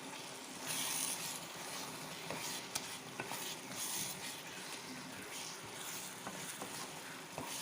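Chicken curry masala with ground coconut paste sizzling in a pan while curry leaves are stirred in with a spoon. The sizzle is a steady hiss that swells briefly about a second in, with light clicks of the spoon against the pan.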